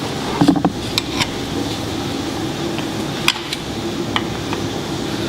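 A few sharp clicks and taps of tools and metal parts being handled, over a steady background hum.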